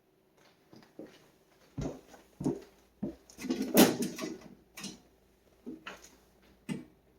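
A string of sharp knocks and thumps roughly a second apart, with a longer rattling clatter in the middle that is the loudest part. It sounds like a door or household fittings being handled in a small room.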